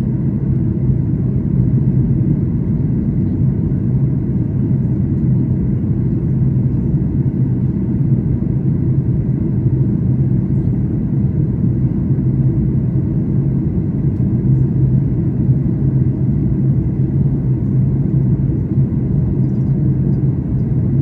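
Steady cabin drone of a Boeing 737 MAX 8 in flight: the deep, even rumble of engine and airflow noise, with a constant low hum and no change in level.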